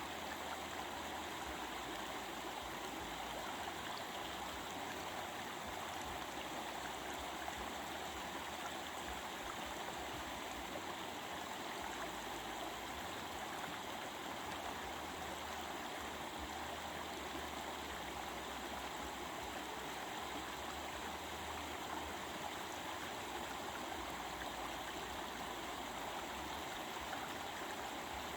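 A stream flowing: a steady, even rush and babble of water that does not change.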